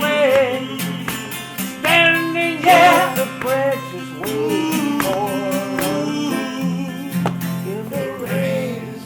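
Live band music: guitars with a wavering melody line over sustained low notes, recorded from within the audience.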